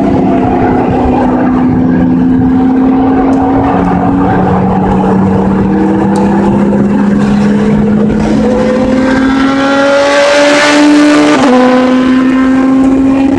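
Car engine heard from inside the cabin, running hard on track. Its pitch climbs slowly, with a sudden drop in pitch near the end.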